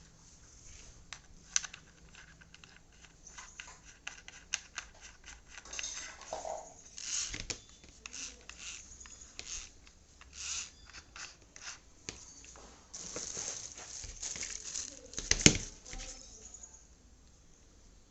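Handling of packaging and the tool: rustling and tearing, with scattered clicks and one loud knock about fifteen seconds in. No drill motor runs.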